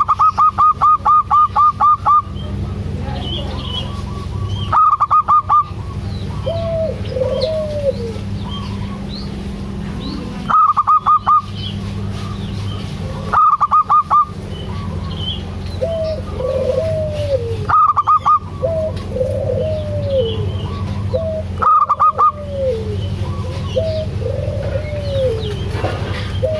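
Zebra doves (perkutut) calling: short arching coos, broken every few seconds by loud, rapid runs of higher notes, over a steady low hum.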